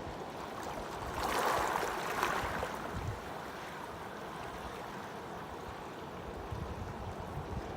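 Pacific Ocean surf: a wave breaks and washes in about a second in, swelling for a couple of seconds, then settling into a steady rush of water.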